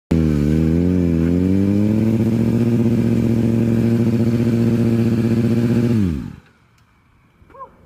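Motorcycle engine revving, its pitch wavering for the first two seconds and then held steady, before it drops away suddenly about six seconds in.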